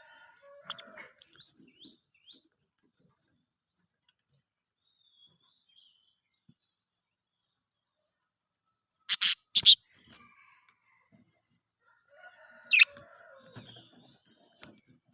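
Pet budgies softly chattering and chirping, with long quiet gaps. Two loud, sharp sounds come close together about nine seconds in, and a further burst of chatter with one sharp chirp follows near thirteen seconds.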